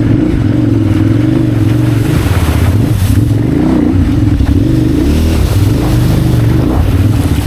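KTM 990 Adventure R's V-twin engine running at road speed, its pitch dipping and rising again a few times with small throttle changes, over steady wind noise.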